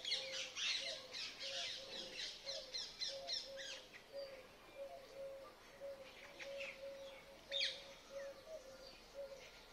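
Wild birds calling: a dense run of quick, high chirps and squawks for about the first four seconds, then only scattered calls. Under them a faint low note repeats two or three times a second.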